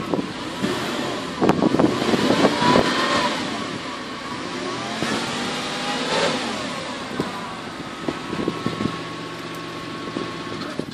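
Porsche 996's flat-six engine running with the serpentine belt off, the revs rising briefly about a second and a half in and again around six seconds. A sewing-machine whine is still present, so it is not coming from the belt-driven accessories.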